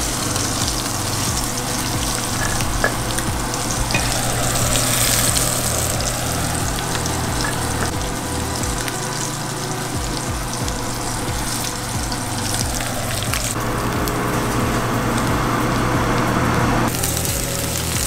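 Flour-dredged catfish fillets frying in hot butter in a skillet: a steady sizzle, whose texture shifts abruptly twice in the last few seconds.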